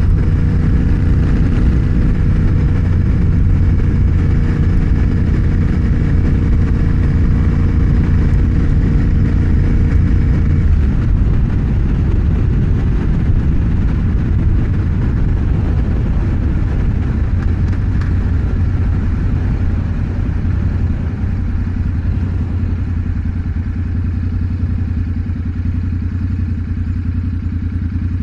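Motorcycle engine running under way, heard from the rider's seat, with an even, steady note until about eleven seconds in. After that the note breaks up into a rougher rumble that slowly drops in level.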